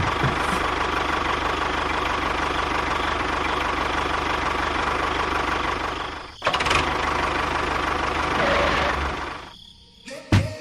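A small motor running with a fast, even rattle. It cuts out briefly about six seconds in, starts again, and dies away near the end.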